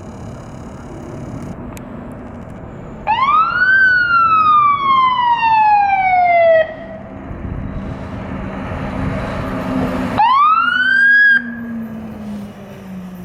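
Fire engine siren winding up twice over the truck's engine. About three seconds in, it rises quickly to a high pitch, then slides slowly down and cuts off about three and a half seconds later. A second quick rise comes near ten seconds and cuts off after about a second.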